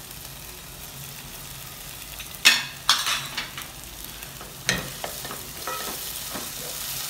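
Chopped tomatoes going into a hot non-stick kadai of frying onions and green chillies and being stirred with a wooden spatula: a steady sizzle. A few sharp knocks of the utensils against the pan come about two and a half seconds in, again just after, and near five seconds.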